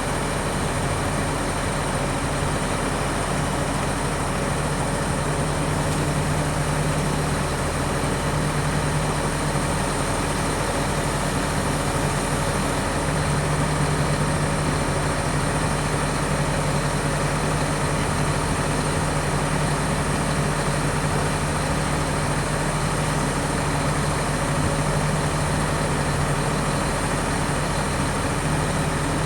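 1997 Volvo truck's diesel engine idling steadily.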